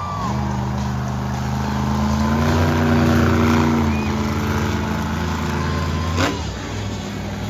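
Monster truck engine running at a steady low rev, rising a little and getting louder for a second or two in the middle, then settling back. A short sharp chirp comes near the end.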